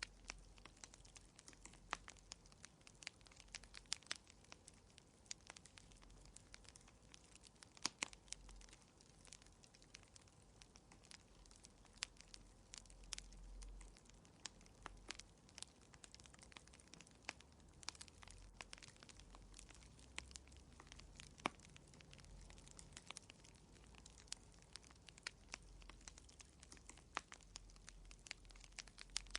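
Quiet fireplace fire crackling, with irregular sharp pops and snaps over a faint low rumble.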